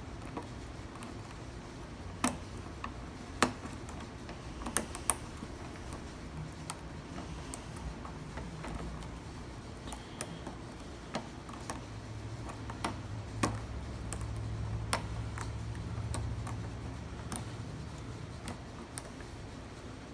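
Lock pick working the pins of a small pin-tumbler gumball machine lock under top-of-keyway tension: irregular light metal clicks and ticks, a few sharper ones early on, over a low hum.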